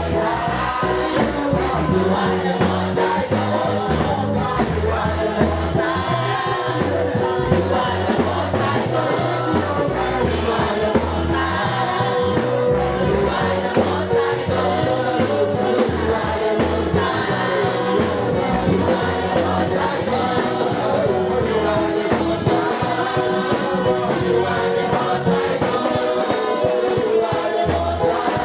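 Gospel worship music: a choir singing over a band with a steady beat.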